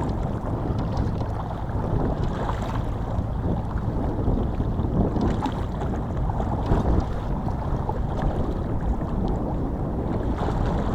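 Wind buffeting the microphone aboard a boat on open water, a steady low rumble mixed with the wash of water.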